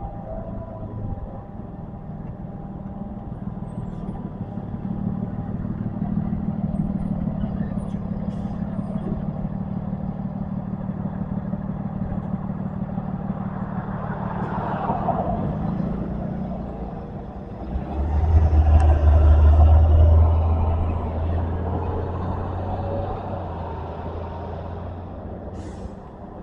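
Road traffic passing: vehicle engines running with a steady low hum, and a heavier, louder vehicle rumbling past about two-thirds of the way through.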